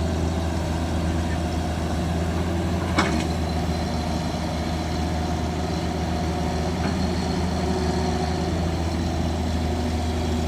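Heavy diesel engine running steadily, with a single sharp knock about three seconds in.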